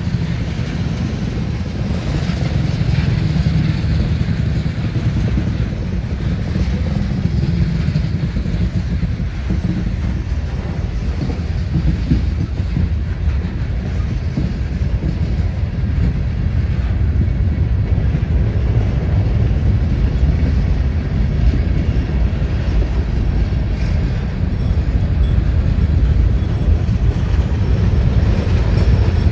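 Freight train rolling past, a steady low rumble of wheels on rail with some clickety-clack from the cars.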